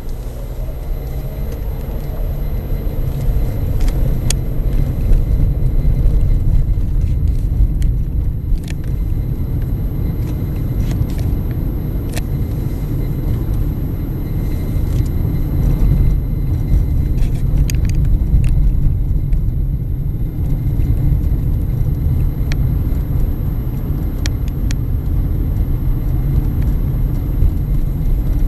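A car on the move, heard from the inside: a steady, loud low road and engine rumble, with a few faint clicks.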